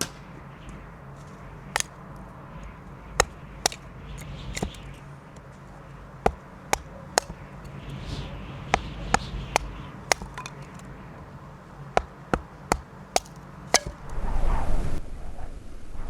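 A series of irregular, sharp chopping strikes, each a short crisp knock, sometimes coming in quick runs less than a second apart. About fourteen seconds in, a louder rushing noise takes over.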